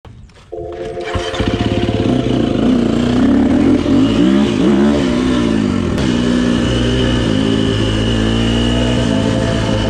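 KTM SX-F 250 dirt bike's four-stroke single-cylinder engine running and being revved, its pitch rising and falling several times; it starts about half a second in.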